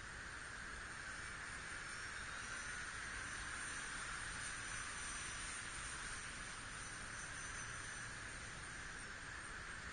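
Faint, thin high whine of an RC model Cessna 182 airplane's motor flying far overhead, drifting slightly in pitch, over a steady hiss.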